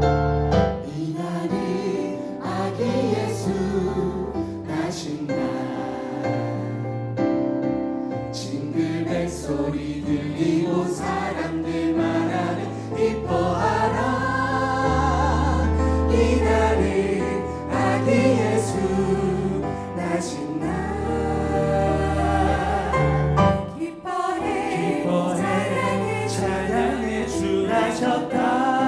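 Choir singing a Christmas gospel praise song over keyboard and band accompaniment.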